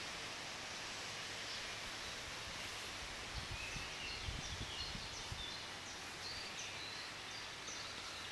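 Faint outdoor garden ambience with small birds chirping in short high notes through the middle of the stretch. A few low thuds on the microphone come about three to five seconds in.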